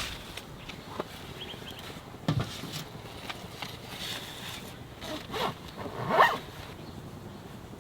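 A zipper pulled in several short strokes, the loudest about six seconds in.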